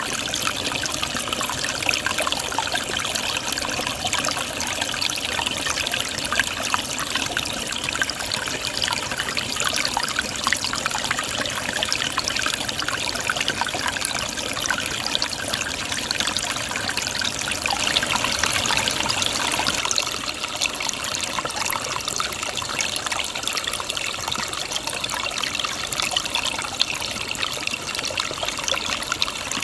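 Mountain valley stream trickling and babbling in a steady rush of water, easing slightly about two-thirds of the way through.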